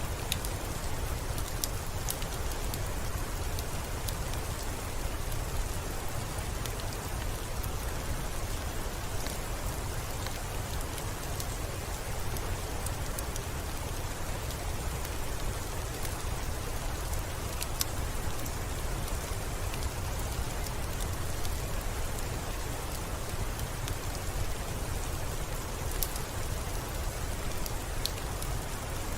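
Steady rainfall with a deep low rumble, and a few sharp ticks scattered through it.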